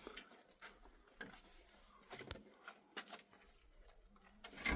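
Faint, scattered knocks and clicks of objects being handled, with a louder knock near the end.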